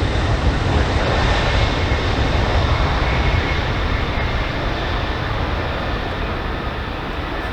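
Jet noise from a Boeing 747-400 LCF Dreamlifter's four Pratt & Whitney PW4062 turbofans as it climbs away after takeoff: a loud, deep rumble with a faint high whine, easing slightly toward the end.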